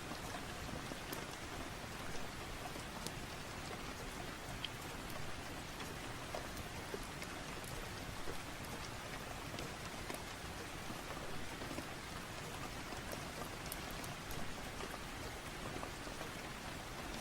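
Steady rain falling, with scattered small crackles from a fireplace.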